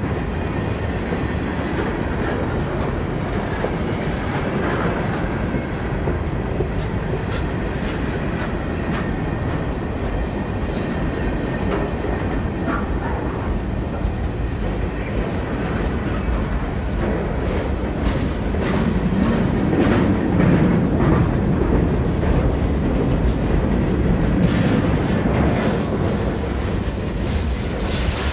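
A train rolling past at steady speed, its wheels clicking over the rail joints in an uneven stream of clicks over a continuous rumble. The rumble grows louder about two-thirds of the way through.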